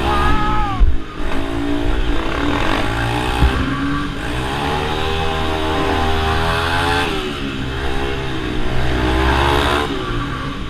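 Minibike engines revving up and easing off as they race around a circle track, their pitch rising and falling over and over. There is a sharp knock about a second in.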